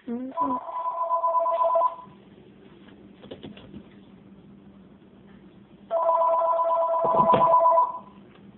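Telephone ringing: two long, steady two-note electronic rings, each about two seconds long and about four seconds apart.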